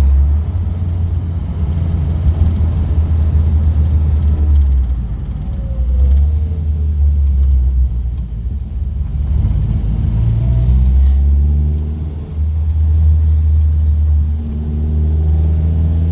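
Car engine and road rumble heard from inside the cabin while driving through a roundabout. The engine note eases off a few times, then climbs as the car accelerates near the end.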